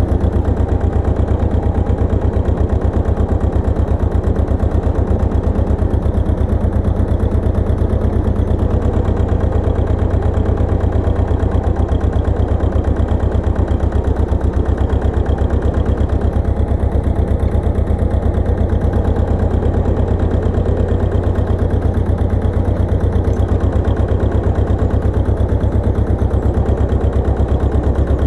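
Pasquali 980 EX tractor engine running steadily with a rapid, even pulse and a strong low hum, its speed unchanging.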